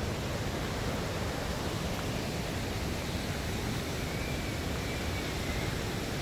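Steady, even rush of the Niagara River's rapids and falling water, with a faint thin whistle-like tone from about four to five and a half seconds in.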